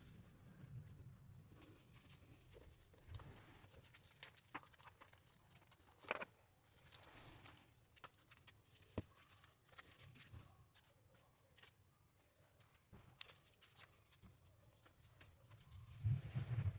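Quiet desk sounds of hands working with paper planners: scattered light clicks and taps, a brief paper swish about six seconds in, and a few soft thumps near the end as things are set down.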